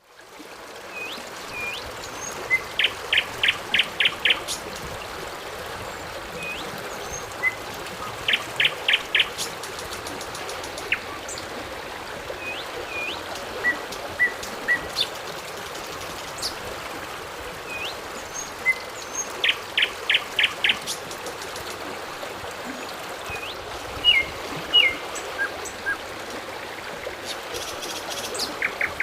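Several birds singing and calling over a steady rush of running water. One bird gives a quick run of five or six notes three times.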